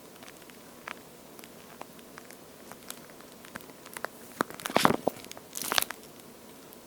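Toast-shaped squishy squeeze toy with a water-like feel being handled and squeezed close to the microphone: scattered light clicks, then two louder spells of crackling squish, one about four and a half seconds in and a shorter one about a second later.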